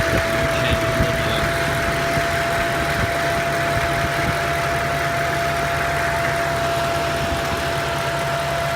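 Mercedes-AMG M156 6.2-litre V8 running at a steady idle with a whine of constant pitch over it. The whine comes on after the car is driven hard and does not change with the revs. The owner suspects a pressure or vacuum build-up, possibly at the PCV valve.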